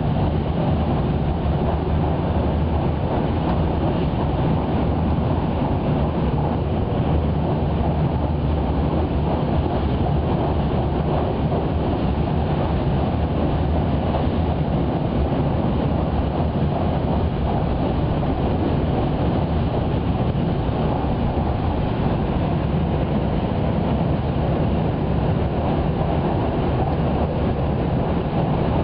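Haruka limited express train running at speed, heard from inside the passenger car: a steady low rumble of wheels and rail with a faint even hum underneath.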